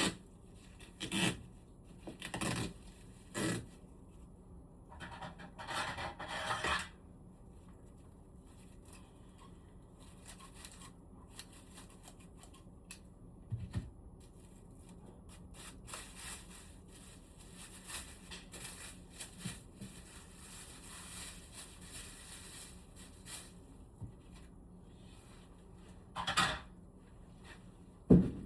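Intermittent rubbing and scraping of hands and tools working on a room air conditioner's parts during cleaning, with a longer scratchy rub about six seconds in and two sharper knocks near the end.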